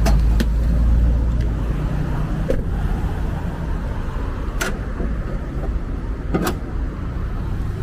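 Steady low rumble of a running car engine and road traffic, with four sharp clicks or knocks spaced about two seconds apart.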